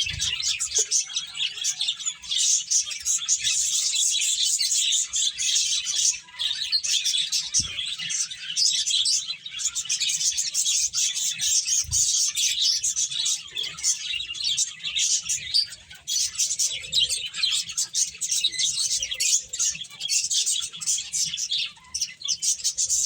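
Pet finches chirping, a dense run of many short, high overlapping chirps from several birds with hardly a pause.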